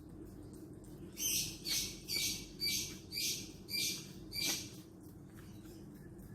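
A bird giving a run of seven short, harsh, raspy calls, about two a second, which then stop, over a steady low hum.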